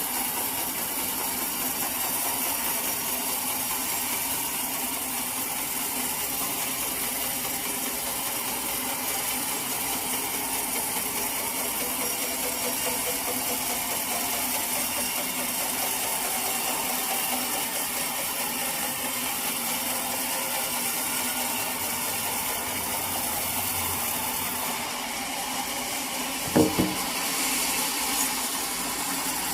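Sawmill machinery running steadily, with one sharp knock near the end.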